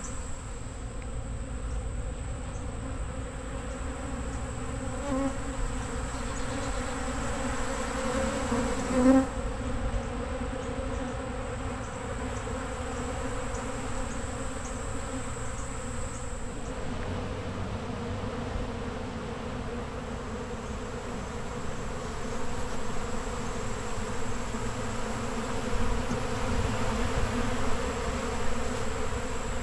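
Many honey bees buzzing as they swarm over a honey extractor, robbing out the leftover honey. Single bees fly close past now and then, the loudest about nine seconds in.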